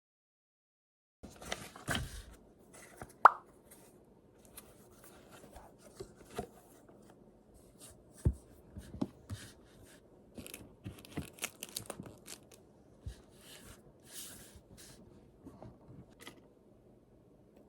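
Assorted small handling sounds in a small room: light taps, clicks and rustles, with one sharper knock that rings briefly about three seconds in.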